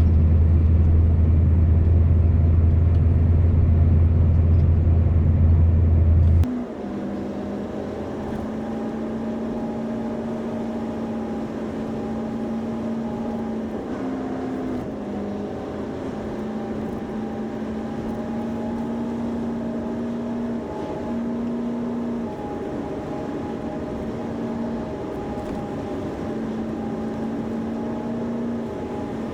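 Scania V8 truck on the move, heard as a heavy, steady low rumble of engine and road. About six seconds in it cuts off abruptly to a quieter steady drone with held tones that step up and down in pitch.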